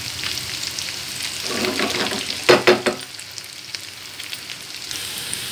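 Boiled taro pieces sizzling and crackling in hot oil in a frying pan, stirred with a spatula that scrapes through them; a few sharp knocks of the spatula against the pan about two and a half seconds in.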